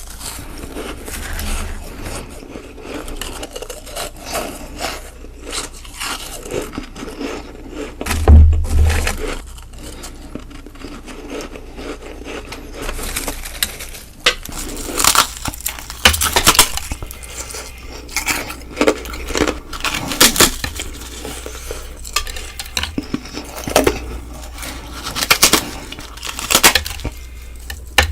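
Close-up crunching of ice being bitten and chewed: a run of separate crisp, crackly bites, with one loud low thump about eight seconds in.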